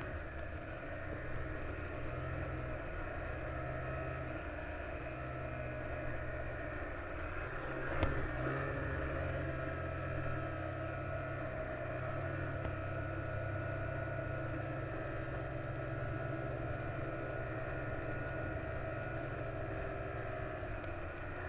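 A vehicle engine running at a steady pace with road noise, with one sharp knock about eight seconds in.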